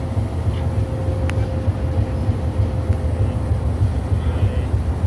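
Railroad car rolling slowly: a steady low rumble with a faint, steady higher tone, and a single sharp click about a second in.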